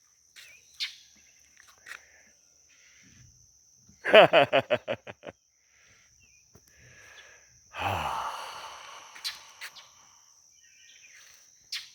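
Steady high-pitched insect drone. About four seconds in comes a loud pitched call that breaks into quick pulses and fades, and near eight seconds a breathy, sigh-like noise that fades out over a couple of seconds.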